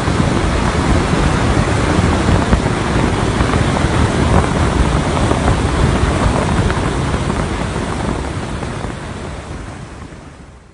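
Roaring wind buffeting the microphone of a camera mounted on the roof of a moving car: a loud, steady rush, heaviest in the lows, that fades out near the end.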